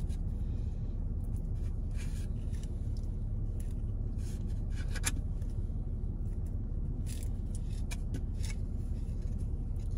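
Car engine idling with a steady low hum, heard from inside the cabin, with scattered light scrapes and clicks of a plastic fork against plastic takeout containers.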